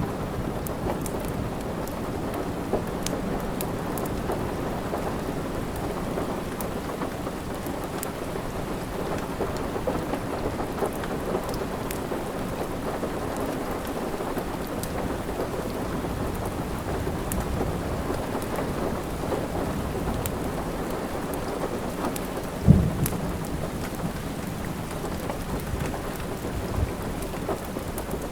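Steady rain with a low continuous rumble, over the sharp, scattered crackles of a wood fire. One loud low thump comes about 23 seconds in.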